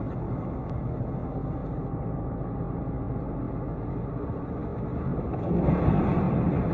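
Steady vehicle engine and road noise, growing louder about five and a half seconds in.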